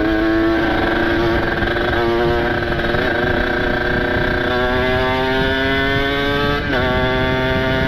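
Kawasaki Ninja RR's ported 150 cc two-stroke single running under way through its open exhaust, revs climbing steadily through a gear. The revs drop at an upshift about seven seconds in, then climb again.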